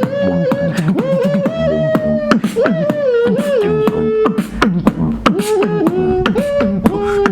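Vocal beatboxing: sharp mouth-made kick, snare and click sounds keep a steady beat under a hummed melody that steps from note to note, over a low sustained drone.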